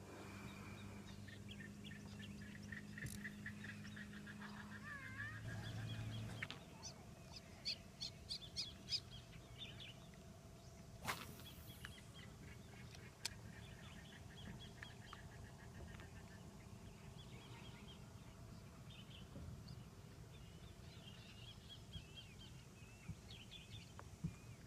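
Wild birds calling faintly: many series of quick repeated chirps and whistles. A low steady hum runs underneath for the first six seconds.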